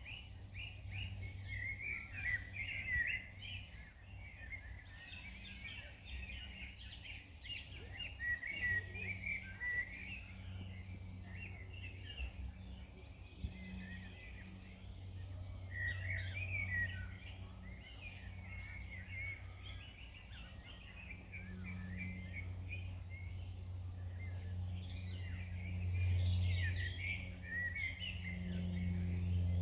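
Several songbirds chirping and twittering in quick, overlapping calls, over a steady low droning hum that swells louder near the end.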